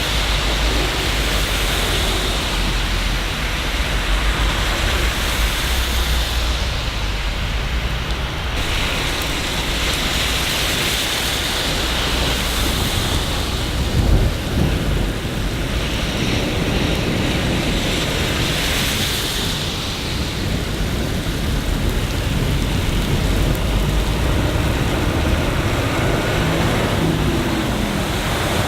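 Steady rain falling in a city, a dense even hiss with a low rumble underneath and one brief louder thud about halfway through.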